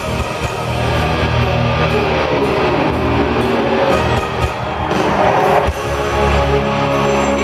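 Live hard rock band playing loudly, an electric guitar prominent, with one line dipping in pitch and rising again about three seconds in.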